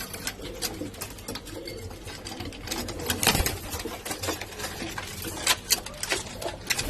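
Pigeons moving about: a run of irregular sharp clicks and taps over a low steady hum.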